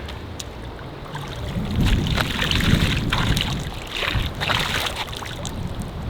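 Strong gusty wind buffeting the microphone over choppy water, swelling about a second and a half in, with scattered small splashes and knocks.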